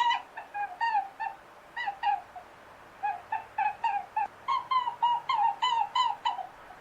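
Farm bird calling in quick runs of short, slightly falling notes, about three or four a second, with a pause of about a second midway.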